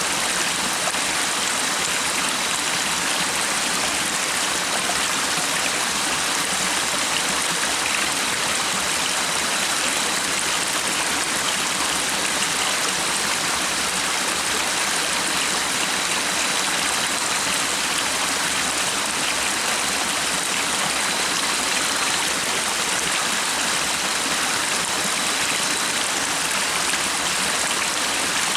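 Stream water running steadily over rocks, an even rushing and babbling that does not change. A faint, thin, steady high tone sits beneath it.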